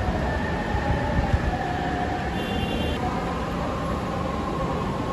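Steady rumbling noise of a moving train, with faint steady whining tones and a brief high beep about two and a half seconds in.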